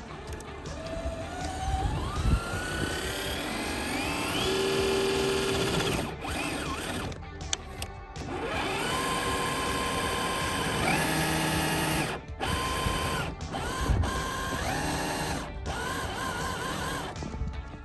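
Electric motor and gears of an RC truck whining under throttle: the pitch rises as it spins up, holds, then cuts off abruptly. This happens in about three bursts.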